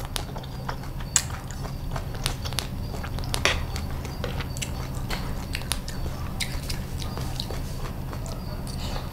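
Close-miked chewing of crispy bột chiên (fried rice-flour cake with egg), with many short crunchy clicks.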